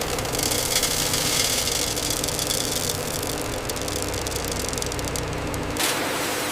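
Machinery running steadily with a low hum and a fast rattling tick. About six seconds in it changes abruptly: the low hum drops away, leaving a hiss.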